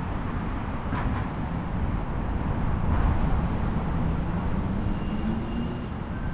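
Steady low rumble of city street traffic, with the faint drone of a passing vehicle's engine.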